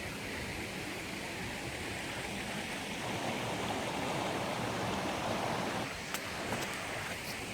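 Stream water rushing steadily, swelling a little louder in the middle, with a few light sharp clicks near the end.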